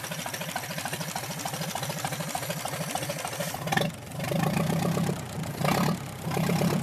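1928 Chevrolet overhead-valve four-cylinder engine idling with a rapid, even firing beat, just revived after more than 50 years out of use. About four seconds in there is a sharp click, then the running grows louder in uneven surges.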